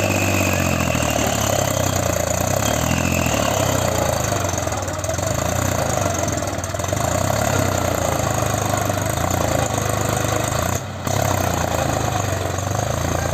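Mahindra tractor's diesel engine running steadily, with a brief dip in level near the end.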